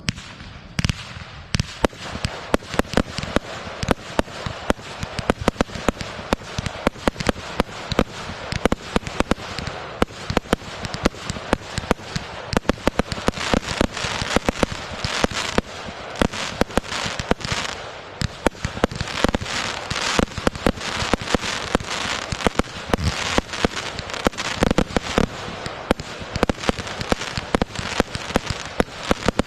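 Fireworks going off in rapid succession: many sharp bangs and pops over a continuous crackle, several each second and never letting up.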